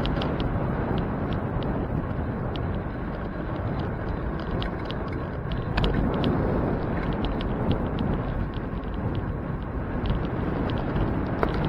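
Steady wind buffeting and road rumble from riding a bicycle, with many small scattered clicks and rattles.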